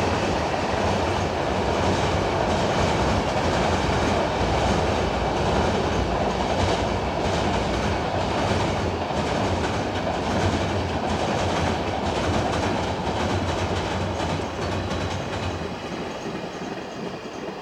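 Freight train running past, its wagons' wheels clattering over the rail joints in a steady rumble that fades away near the end as the train goes by.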